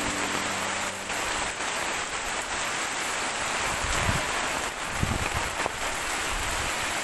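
Heavy tropical-storm rain pouring steadily, with two low gusts of wind buffeting the microphone about four and five seconds in.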